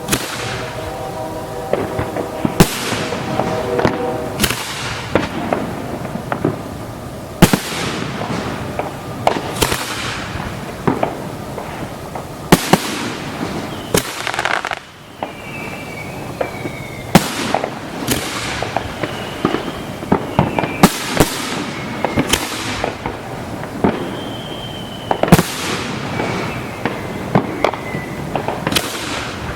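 Fireworks display: a steady run of sharp shell bursts, one every second or two, with crackling in between. Several high, slightly falling whistles sound in the second half.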